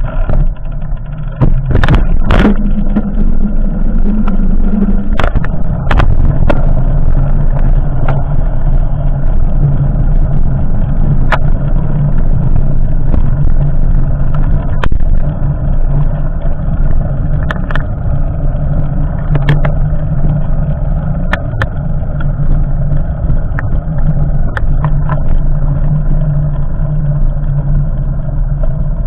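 An engine running steadily with a constant low hum, with a few sharp clicks scattered through it.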